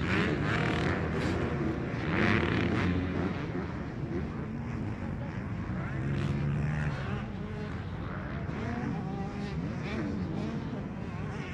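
Several motocross bikes racing, their engines overlapping and revving up and down as they accelerate and pass.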